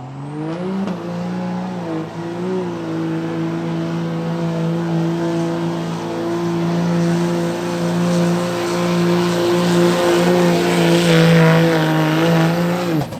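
Street-class diesel pickup truck pulling a sled down the track. The engine revs up in the first second, then holds at high, steady rpm under full load, growing louder, and cuts off sharply just before the end.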